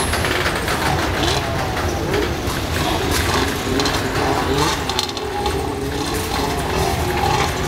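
Freight cars rolling past: a steady low rumble of the wheels on the rails with frequent metallic clanks and clicks, and faint wavering squeals over the top.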